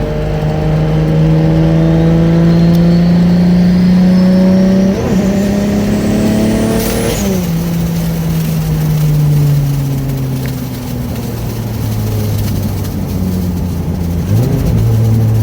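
Single-turbo Dodge Stealth's 3.0 L V6 under way, its pitch climbing steadily for about seven seconds under a faint rising turbo whistle. Then it drops sharply with a short burst of noise as the throttle closes, and settles lower, dipping again near the end.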